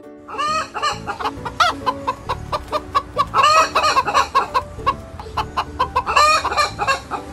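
A flock of domestic chickens clucking and squawking: many short overlapping calls that come in flurries, busiest around three and a half and six seconds in.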